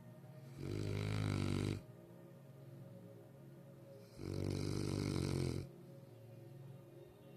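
Cane Corso snoring, two long snores about three and a half seconds apart, each lasting just over a second. The owner puts the snoring down to the dog's head lying in a bad position.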